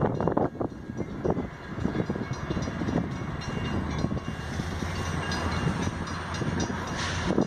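Metra commuter train rolling past at close range, its steel wheels rumbling and clattering over the rail joints in a run of irregular knocks. A brief hiss cuts in near the end.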